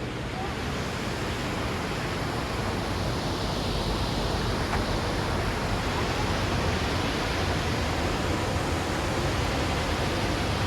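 Steady rush of falling water from the Lechfall waterfall on the Lech river, growing slowly louder.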